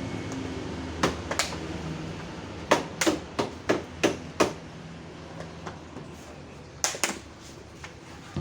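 About ten sharp knocks on a car's sheet-metal body panel as a dent is tapped out: two a little after the first second, a quick run of six between about three and four and a half seconds in, and two more near the end.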